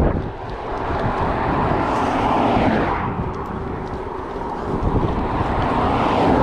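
Wind buffeting the microphone over the rolling noise of a gravel bike on the move, a steady rush with low rumble. The rushing swells about two to three seconds in and again near the end.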